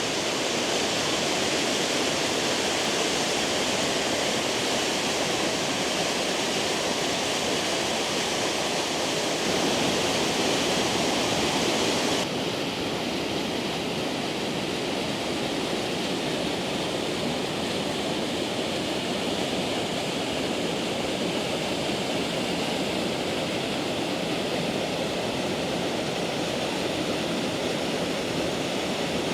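Injebreck Waterfall, a hill-fed upland waterfall, rushing and splashing in a steady roar of falling water. About twelve seconds in, the sound changes abruptly, becoming slightly quieter and less hissy.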